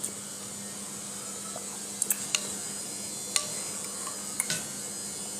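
Several short, sharp clicks and clinks at irregular intervals over a steady low hum and hiss.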